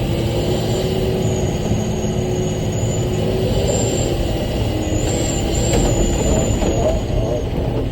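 Rock truck's diesel engine running steadily under way, a low rumble with a thin high whine that comes and goes.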